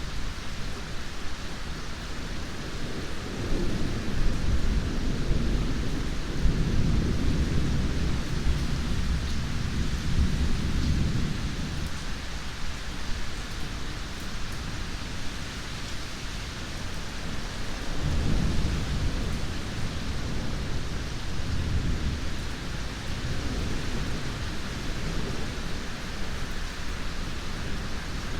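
Steady heavy rain with rolling thunder: a long low rumble builds a few seconds in and fades by about twelve seconds, and a second rumble swells near eighteen seconds before dying away.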